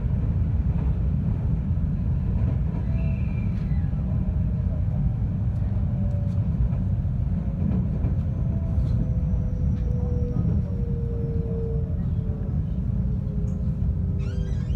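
JR West 521-series electric multiple unit running between stations, heard from inside the car: a steady low rumble of wheels on rails, with a faint motor whine slowly falling in pitch.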